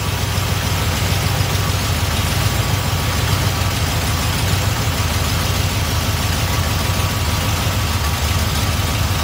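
Small-block Chevy V8 idling steadily with a low, even rumble. The Edelbrock carburetor's second idle mixture screw is being turned in to lean the mixture, and the idle sags toward stalling.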